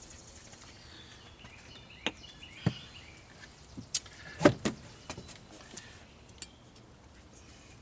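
A few scattered sharp clicks and knocks from hands handling parts on the golf cart's engine, the loudest a close pair about halfway through, over a faint steady background.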